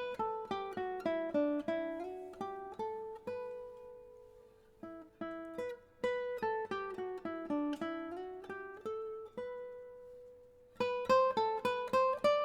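Background music: a plucked acoustic guitar melody, note after note, that thins out twice before picking up again near the end.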